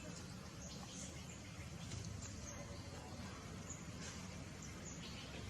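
Faint outdoor background noise with a few brief, faint high-pitched chirps or squeaks scattered through it.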